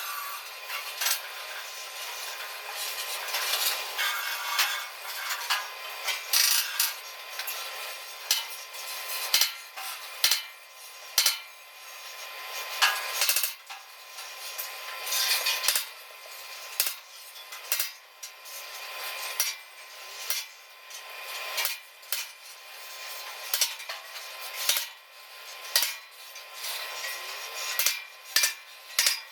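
Steel clanking and knocking from work on a steel truck bed: irregular sharp metal hits, some much louder than others, over a steady hiss.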